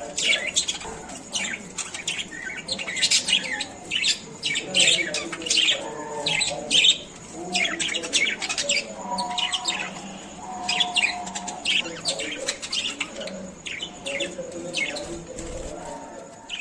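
Pet love birds (small parrots) chirping continuously, with rapid, shrill, overlapping chirps and a few longer, lower notes midway through.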